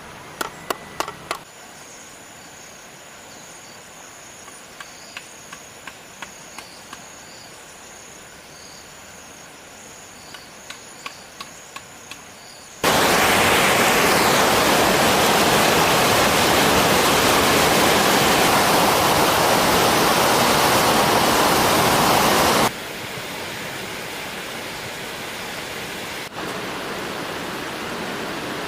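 A few clusters of sharp taps over a quiet outdoor background with a faint high steady tone. About halfway through, loud, even rushing water or heavy rain cuts in suddenly. Some ten seconds later it drops abruptly to a quieter wash of the same water sound.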